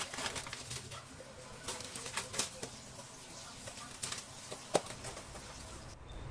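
Hands at kitchen work: irregular light clicks, taps and rustles, with one sharper knock about five seconds in.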